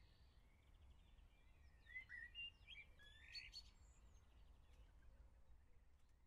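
Faint chirps and short trills of small birds, a cluster of them about two to three seconds in, over a low steady background rumble.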